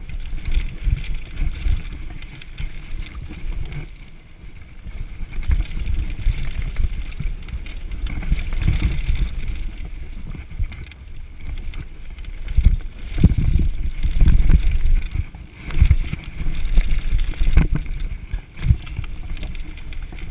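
Mountain bike descending a downhill trail: wind buffeting the microphone in gusts over tyres running on dirt, with the bike rattling and knocking sharply over bumps.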